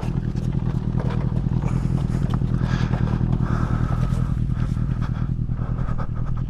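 Motorcycle engine idling steadily with an even, rapid low pulse.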